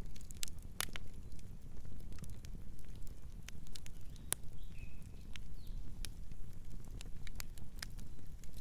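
Fire crackling, with irregular sharp pops over a steady low rumble. A bird gives a few short chirps about halfway through.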